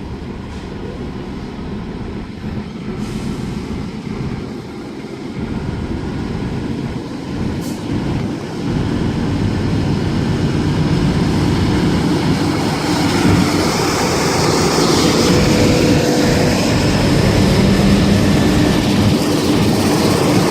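NR class diesel-electric freight locomotives starting away from a signal stop. Their engines grow steadily louder as they draw nearer.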